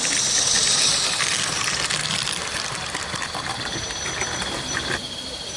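Live-steam garden railway locomotive hissing steam, loudest in the first second or so, with light clicking throughout.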